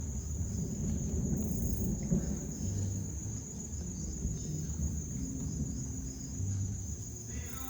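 Night insects trilling steadily on one high tone, over a low, uneven rumble that is the loudest sound.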